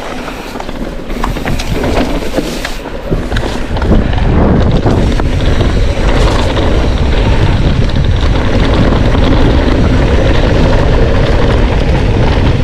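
Mountain bike riding a rough trail: wind rushing over the microphone and tyres rumbling over the ground, with scattered rattles and clicks. It gets much louder about four seconds in as the bike picks up speed.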